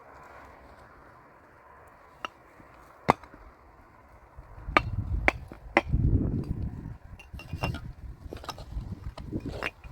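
A hand tool knocking on building blocks during block-laying: a series of sharp, clinking knocks, sparse at first and more frequent from about halfway through, with low thuds and scraping underneath.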